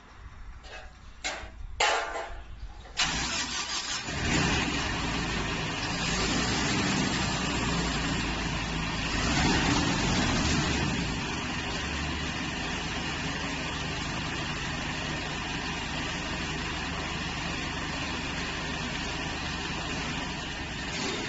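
A few clicks, then a maize harvester's engine starts about three seconds in and keeps running steadily, a little louder for the first several seconds.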